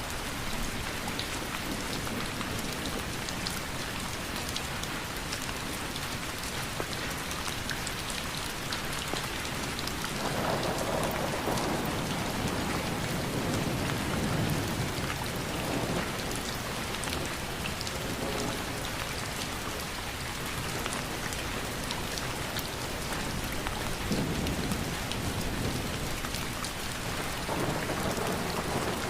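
Steady rain falling, with a low rumble of thunder swelling about ten seconds in and again near the end.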